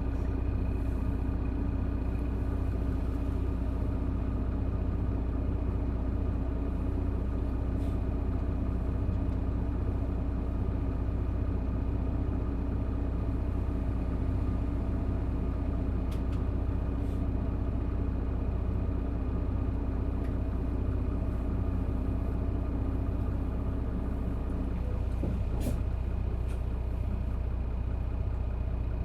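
Isuzu Erga PJ-LV234N1 bus's inline-six diesel idling steadily, at an even pitch throughout, with a few faint clicks.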